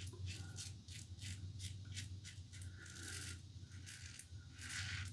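Double-edge safety razor (The Razor Company Vanguard, standard plate) cutting stubble through lather in quick short strokes, a faint crisp scraping about two or three times a second.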